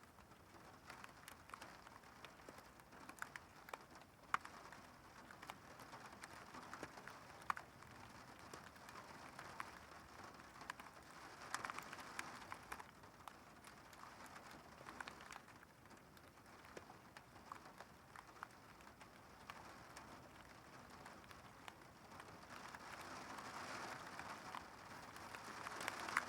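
Faint thunderstorm rain pattering, with scattered sharp ticks of single drops; it grows heavier over the last few seconds.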